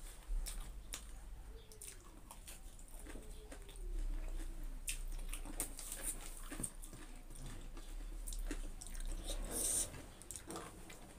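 Close-up eating sounds: chewing with repeated short mouth clicks and smacks as rice and fried vegetables are eaten by hand. A faint gliding tone is heard a couple of seconds in.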